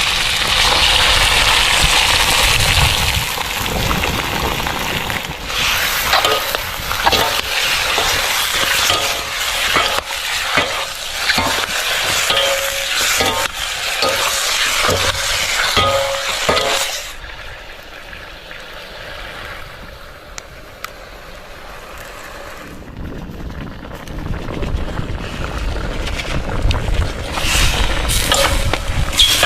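Food frying in a pan, sizzling, with a utensil stirring and clinking against the pan. The sizzle drops to a quieter hiss a little over halfway through.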